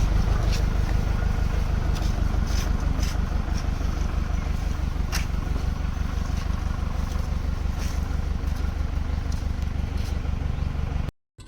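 Tractor diesel engine running steadily, a low rumble with a few faint clicks over it, cutting off abruptly near the end.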